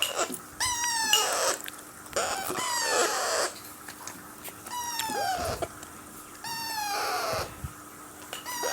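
Alexandrine parakeet chicks giving hungry begging calls during hand-feeding: a rasping call about every two seconds, each made of quick falling notes.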